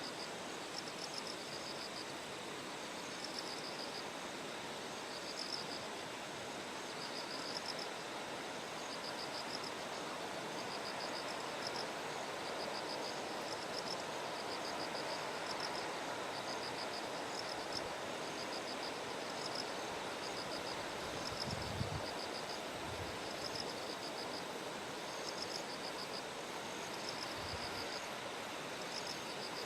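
Bell crickets (suzumushi) singing, short trilled chirps repeating over and over, over a steady rushing background. A few brief low thumps come about two-thirds of the way through and near the end.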